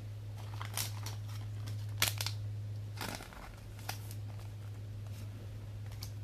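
Trading cards being handled and shuffled: a handful of short dry rustles and slides of card stock, over a steady low hum.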